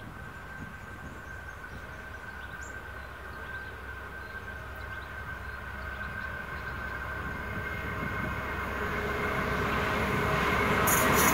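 CRRC-built SDA-1 (CSR class) diesel locomotive approaching at the head of a container freight train. Its sound grows steadily louder as it nears, with a few sharp clicks near the end.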